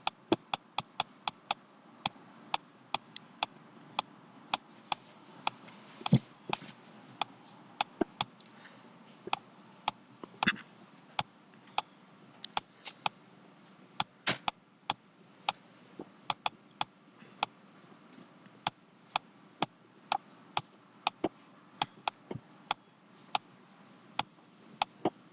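Sharp clicks of a computer mouse at an irregular pace, roughly one or two a second, with a few louder ones, over quiet room tone.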